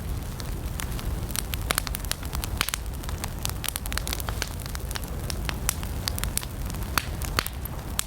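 Wood campfire burning: irregular sharp crackles and pops, many a second, over a steady low rumble of the flames.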